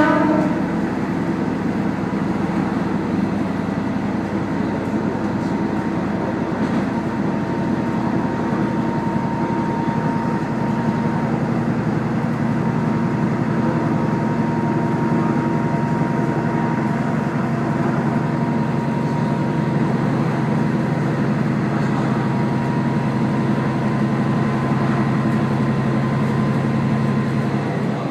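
Kazekko diesel railcar under way, heard from inside: the engine runs with a steady low drone, mixed with the rumble of wheels on the rails. There is a single sharp click at the very start, and a faint steady whine runs underneath.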